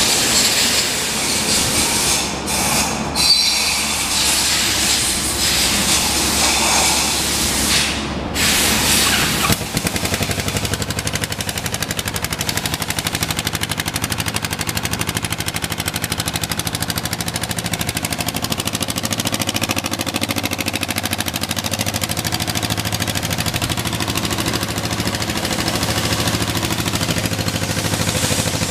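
2015 Kawasaki Vulcan S 650's parallel-twin engine running after startup: uneven and noisy for roughly the first nine seconds, then settling suddenly into a steady, even idle.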